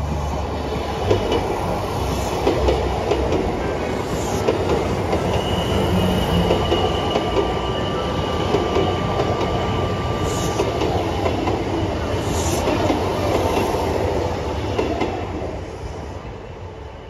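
Kintetsu electric commuter train running past along the platform: a steady rumble of steel wheels on the rails with scattered clicking. A thin high squeal is held for several seconds in the middle. The sound fades near the end as the last car goes by.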